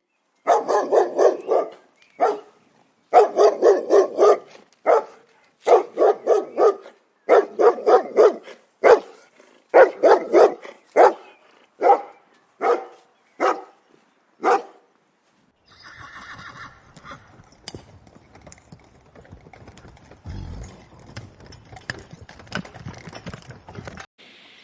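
An animal calling in groups of short, loud, pitched bursts for about fifteen seconds. After a brief pause a quieter, rougher stretch of sound follows.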